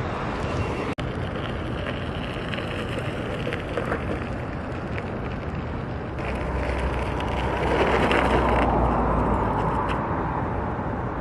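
Outdoor street ambience: a steady rush of traffic and wind noise that swells louder about six to nine seconds in, then eases.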